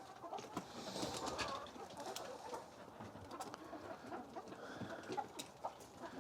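A flock of chickens clucking softly, with scattered faint clicks.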